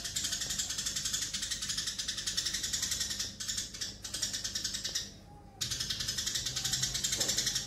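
Eurasian tree sparrows chattering: a dense, rapid run of high chirps that breaks off for about half a second a little after five seconds in, then carries on.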